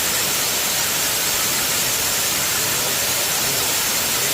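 Kanto Lampo Waterfall's falling water: a steady, even rushing hiss with no breaks.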